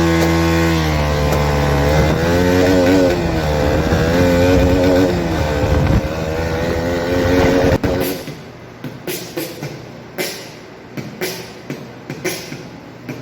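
KTM Duke 200's single-cylinder engine revving loud, its pitch climbing and dropping several times. It cuts off abruptly about eight seconds in, and a run of quieter, irregular sharp clicks follows.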